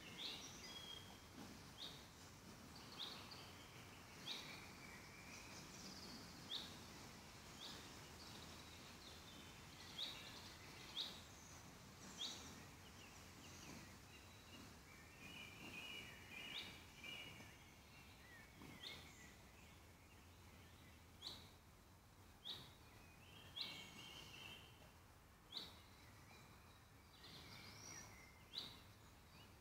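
Woodland birds calling over a quiet forest background: short, sharp high call notes repeated every second or two, with a few brief warbling song phrases in between.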